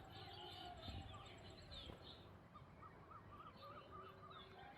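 Faint birdsong: scattered high chirps, then a quick run of repeated short notes from about halfway in.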